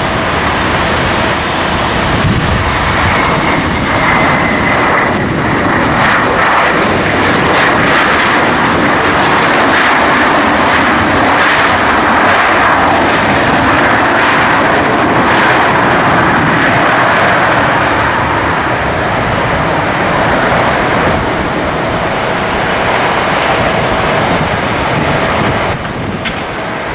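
Airliner's engines running loud and steady as it passes, the sound easing a little over the last few seconds.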